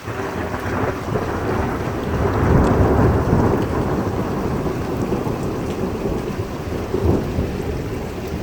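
Thunder rolling over a heavy downpour: a deep rumble breaks in suddenly, swells to its loudest about three seconds in, then eases off into steady rain.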